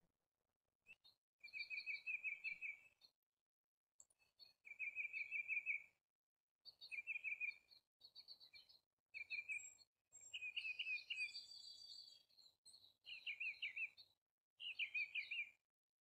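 A bird calling in a series of short, rapid trilled phrases, each a second or two long, with brief silences between them.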